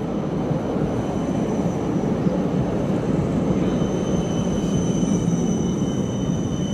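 A tram passing close by, with a loud low rumble and a steady high-pitched whine that grows stronger in the second half.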